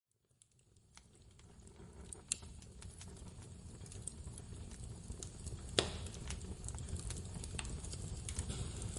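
Wood fire burning and crackling, fading in from silence: a low steady rumble of flames with scattered sharp pops, the loudest two at about two and a half and six seconds in.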